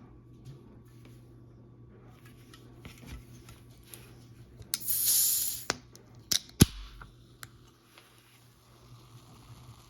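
A snack package being handled and opened: light crinkling and small clicks, then a loud rip or hiss lasting about a second midway, followed by a few sharp clicks.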